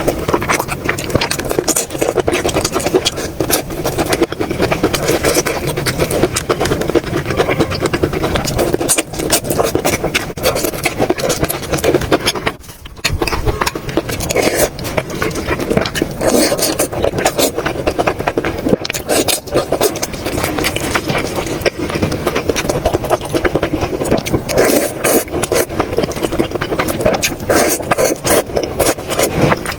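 Close-miked eating sounds: dense, continuous chewing and mouth clicks, with a brief pause about halfway.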